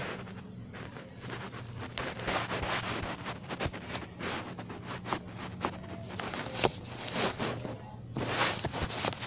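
Irregular rustling and scraping, with a steady low hum underneath.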